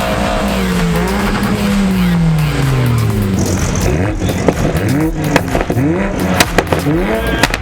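A car engine revved hard. Its pitch falls away over the first few seconds, then it is blipped again and again, about two revs a second, with sharp cracks and pops from the exhaust.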